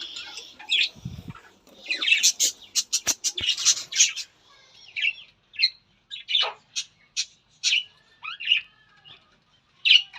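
Small pet parrots chirping and squawking in short, scattered calls, busiest in the first few seconds and sparser after.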